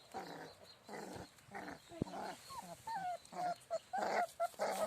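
One-month-old American Bully XXL puppies vocalising: rough, noisy bursts at first, then from about halfway a run of short, high squeaky whines, several a second.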